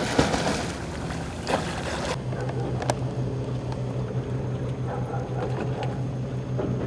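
Boat engine running with a steady low hum. For about the first two seconds a rushing noise lies over it, then it stops abruptly.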